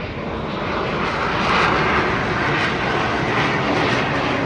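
Eurofighter Typhoon's twin EJ200 turbofans in afterburner during a display pass: a loud, continuous rush of jet noise that swells slightly about a second and a half in.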